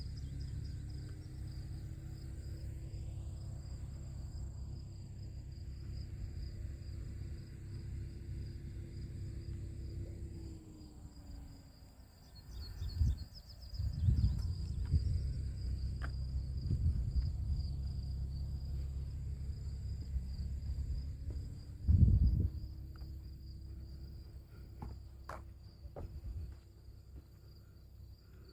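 A steady high chorus of insects trilling over a low rumble. The rumble swells louder about 13 seconds in and briefly again about 22 seconds in.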